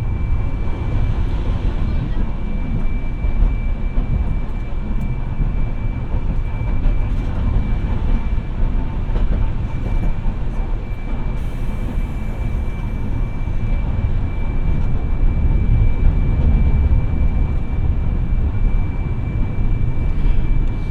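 Hiroden 700 series tram No. 701 running along its line, heard from inside the car: a steady low rumble of wheels and motors, swelling a little midway, with a thin constant high tone over it.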